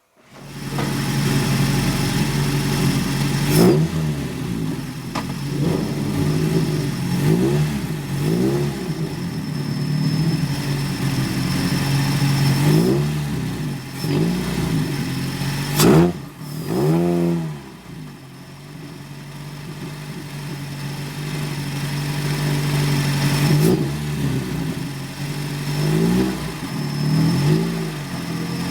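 Single-seater race car engine running hard on a circuit, its note rising and falling again and again through the gears. A sharp knock comes about four seconds in and a louder one about sixteen seconds in. The engine eases off for a moment shortly after that, then climbs slowly again.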